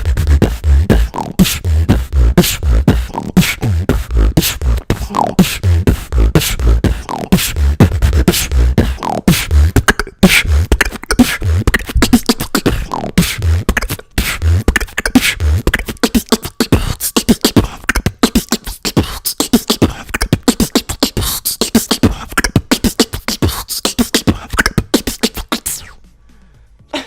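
Beatboxing: a fast, dense run of mouth-made kick drums, snares and hi-hat clicks, with sliding vocal tones woven in. About two-thirds of the way through, the deep kicks drop out, leaving sharper high clicks and hisses, and the routine stops abruptly near the end.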